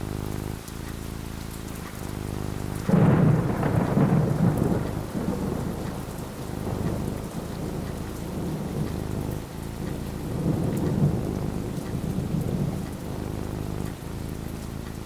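Thunder over steady rain: a loud clap breaks about three seconds in and rolls on in deep rumbles, with a second, weaker swell of rumbling later.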